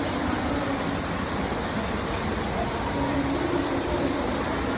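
Steady rush of falling water from a 15-metre indoor waterfall.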